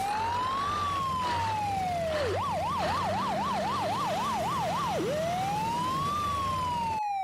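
Electronic siren alternating between a slow wail and a fast yelp: one slow rise and fall lasting about two seconds, then a quick warble of about three short up-and-down sweeps a second, then the slow wail again. A low rumble underneath cuts off near the end.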